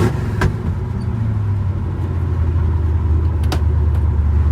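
The car's 327 V8 running while the car drives along, a deep steady rumble that grows slightly louder. A few sharp clicks come near the start and about three and a half seconds in.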